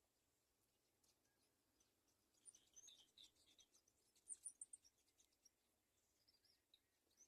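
Faint, high-pitched bird chirps in quick runs, densest from about two and a half to five seconds in, with a few more near the end.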